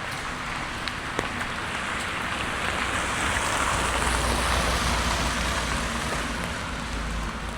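A car passing on a wet street. Its tyre hiss and low engine rumble swell to a peak about halfway through and fade again, over steady rain.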